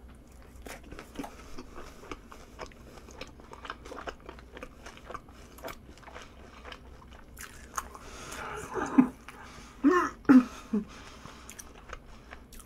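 Close-miked chewing of crispy, sauce-coated fried food, with many small crunches and wet mouth clicks. A few short voiced sounds break in around nine to eleven seconds in.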